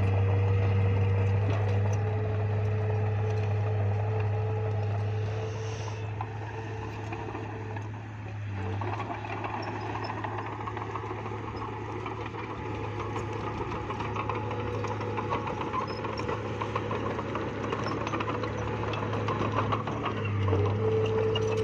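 Bulldozer's diesel engine running steadily under load, easing off about eight seconds in and then picking up again, with light rapid clanking in the second half.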